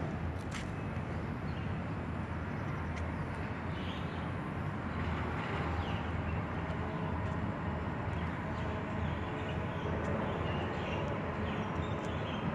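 Steady low outdoor rumble, with faint bird chirps now and then.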